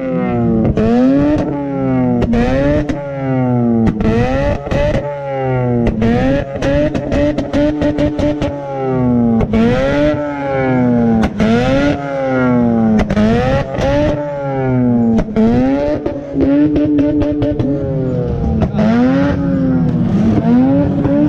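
Car engine revving hard over and over, its pitch climbing and then dropping sharply about every second and a half, as the car is driven hard.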